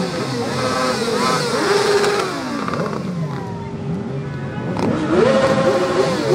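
Several motor vehicle engines revving in overlap, their pitch repeatedly climbing, holding and falling away, with a sharp rev about five seconds in.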